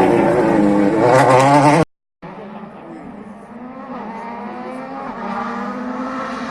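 A rally car's turbocharged engine revving hard, its pitch rising and falling through gear changes, cut off abruptly just under two seconds in. After a brief silence another rally car is heard approaching, getting steadily louder.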